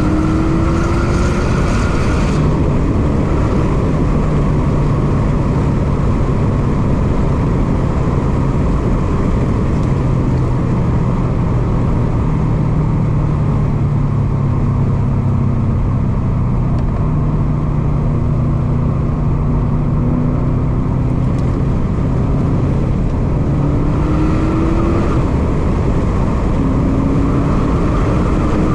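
Subaru WRX STI's turbocharged 2.5-litre flat-four heard from inside the cabin while being driven hard: revs climbing at the start and cutting off about two seconds in, a long steady lower-pitched stretch, then pulling up through the revs again twice near the end, over constant road and wind noise.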